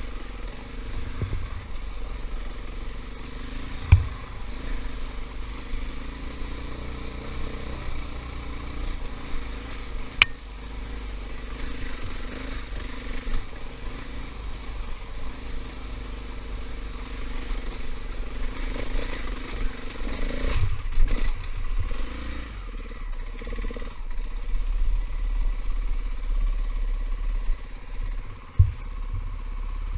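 KTM 500 EXC dirt bike's single-cylinder four-stroke engine running and changing pitch with the throttle, with a few sharp knocks and clatter along the way.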